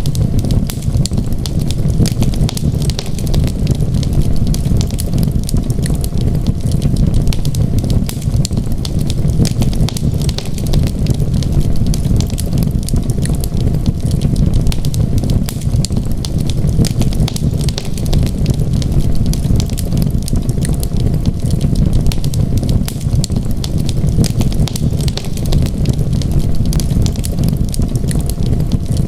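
Wood fire crackling in a fireplace, with dense, irregular snaps and pops over a steady low rumble.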